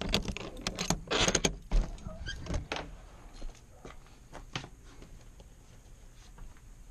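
A quick run of sharp clicks, rattles and knocks, with one heavy thump a little under two seconds in, then only a few faint clicks.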